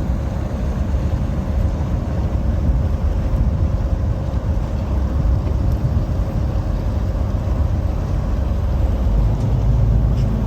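Tender boat's engine running steadily under way: a low rumble with a faint steady hum over it.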